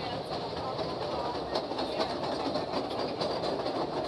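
Narrow-gauge cave train running, heard from aboard: a steady rumble of wheels on rail with irregular clacks and rattles from the cars.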